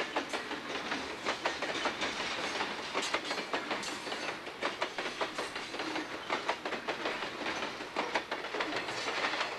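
Train passing at speed, its wheels clattering rapidly over the rail joints over a steady rumble of rolling noise; the sound cuts off abruptly at the very end.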